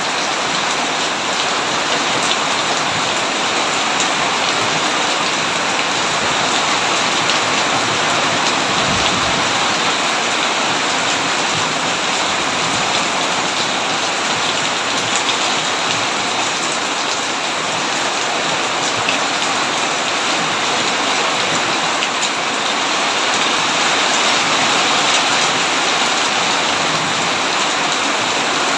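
Heavy rain falling steadily, an even hiss with scattered sharper drop impacts.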